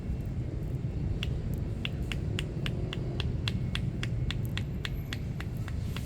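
Steady low rumble of street traffic, with a fast run of light, evenly spaced clicks, about three to four a second, starting about a second in.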